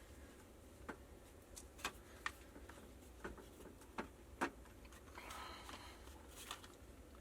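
Scattered light metallic clicks and taps from handling the wrench and the loosened union fittings on a water pressure regulator, unevenly spaced, with a brief soft rustle about five seconds in.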